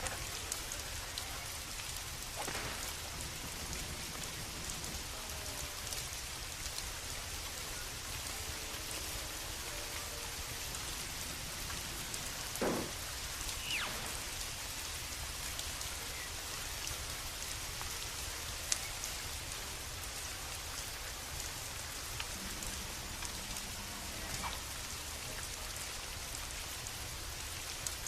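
Steady rain falling, with a few faint crackles and pops from a wood fire.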